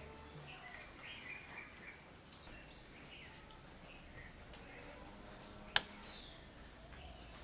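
Faint background ambience with birds chirping now and then, and a single sharp click a little before the end.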